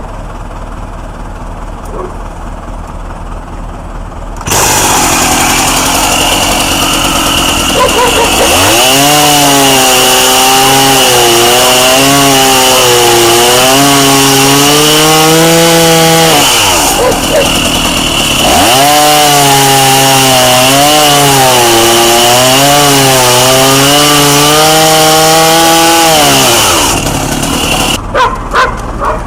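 Chainsaw running at high revs in two long cuts, its pitch wavering under load and dropping briefly between them. It starts loudly a few seconds in, after some quieter clicking, and winds down near the end.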